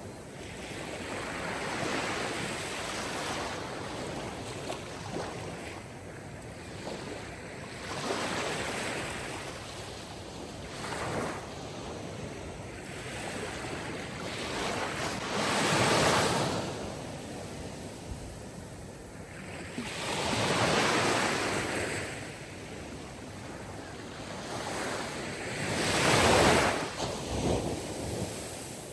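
Sea waves breaking and washing on a shore in slow swells, the loudest about every five seconds, under a steady rush of surf.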